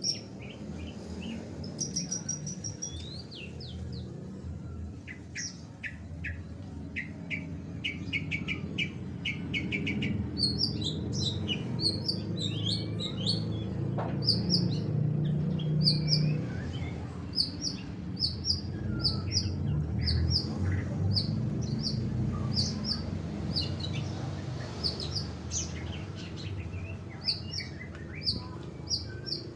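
Long-tailed shrike (cendet) calling: rapid series of short, sharp high chirps, repeated over and over, the kind of calls played to provoke a silent shrike into singing. A steady low hum runs underneath.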